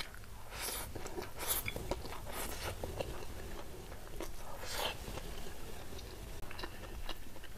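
Close-miked chewing of a mouthful of rice and fried food: irregular wet smacking and clicking mouth sounds.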